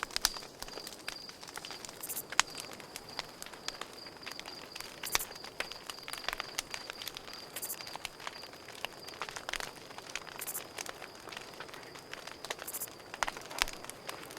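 Campfire crackling with frequent sharp pops, over a cricket trilling in a steady pulsing rhythm. A short high hiss comes back every two to three seconds.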